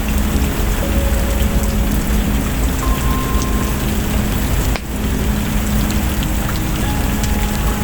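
Steady heavy rain with a deep low rumble underneath and scattered small ticks, dipping briefly about five seconds in. A few faint short tones sound now and then.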